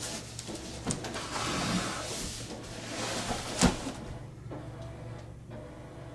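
Cardboard boxes being handled: a scraping slide of cardboard over a second or two, then a single sharp knock a little past halfway, with a few lighter knocks around it.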